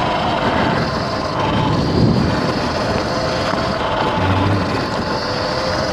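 X Pro dirt bike being ridden along a rough trail: a steady motor whine over the rumble and rattle of the bike and wind.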